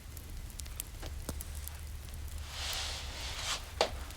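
Fire crackling in a fireplace: scattered sharp pops and clicks over a low steady hum, with a soft hiss swelling a little past halfway.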